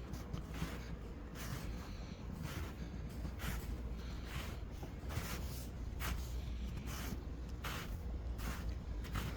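Footsteps on fresh snow, a steady walking pace of about two steps a second, each step a short crunch. A steady low rumble runs underneath.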